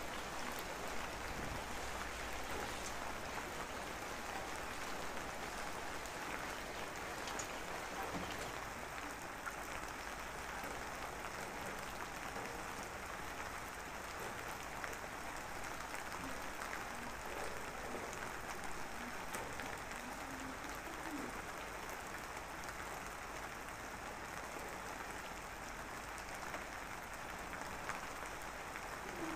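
Rain falling steadily, an even hiss with faint scattered ticks of drops.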